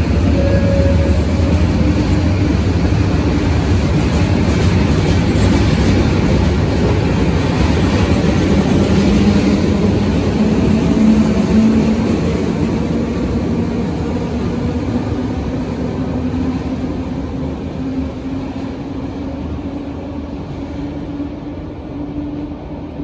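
Serbian Railways class 412 electric multiple unit running out of an underground station, its wheels and running gear loud and echoing as the cars go by. After the last car passes, a faint whine slowly rises in pitch while the noise fades as the train draws away into the tunnel.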